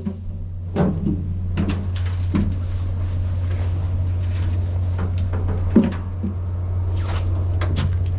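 A steady low mechanical hum, with scattered short knocks and clunks.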